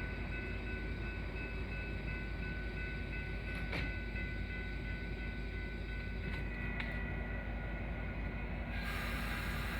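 Metra commuter train running at the station: a steady low rumble with a thin steady whine over it and a couple of sharp clicks. A steady hiss comes in near the end.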